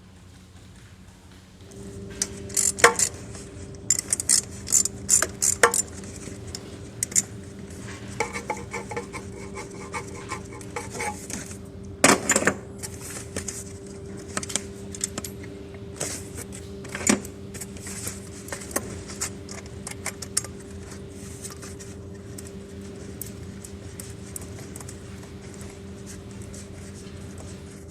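Metal clinking and clattering, many short sharp clinks, over a steady hum that starts about two seconds in.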